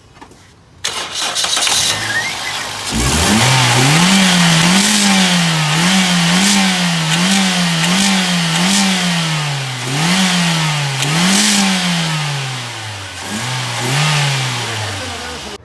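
Toyota Corolla GLi engine cranked and started, then revved up and down over and over with the throttle blipped about once a second. It settles lower near the end.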